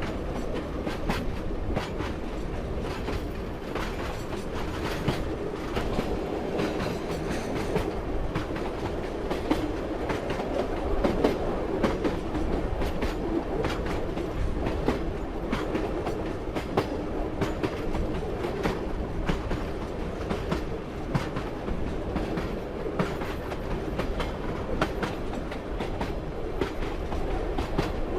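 Railway carriage running along the track: a steady rumble with frequent clicks and knocks of the wheels over the rail joints.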